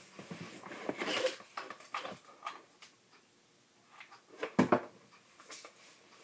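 Paper craft pieces being handled at a table: rustling and small clicks for the first couple of seconds, then a quick pair of sharp knocks a bit past four and a half seconds in.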